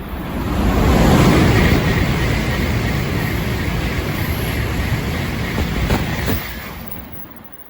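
Shinkansen bullet train passing at high speed without stopping: a loud rushing roar of wheels and air that builds quickly, holds for about five seconds, then drops off sharply as the tail passes and fades away.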